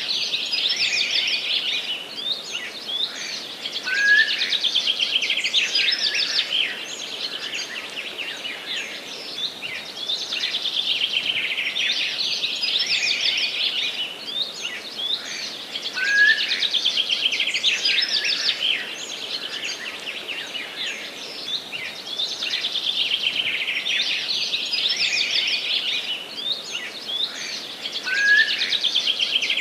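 Several forest songbirds singing together: dense, rapid high chirps and trills that swell and fade every few seconds. A short, lower rising note cuts through about every twelve seconds.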